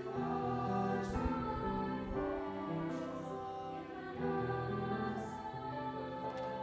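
Choir singing a slow piece in sustained chords that change every second or two.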